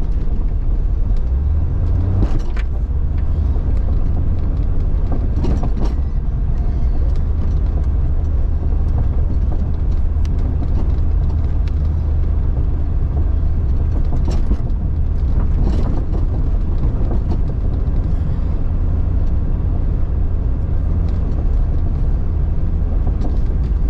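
Jeep Cherokee XJ driving slowly along an off-road trail, its engine running with a steady low rumble. A few brief knocks and rattles from the body and suspension come through over the bumps.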